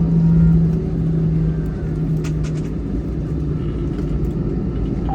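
Cabin noise inside an Airbus A320-200 rolling on the ground just after landing: a steady low rumble from its CFM56-5B engines and landing gear. A steady hum over the rumble fades out a couple of seconds in.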